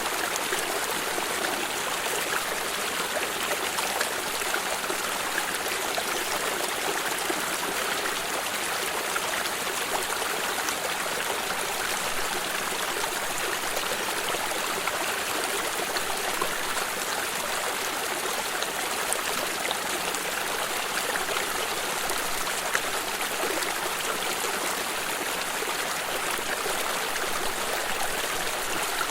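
Steady rushing and trickling of a flowing stream, constant throughout.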